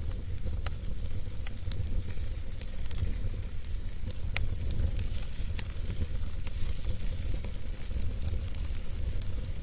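Fireplace fire burning with a steady low rumble and scattered sharp crackles and pops of burning wood.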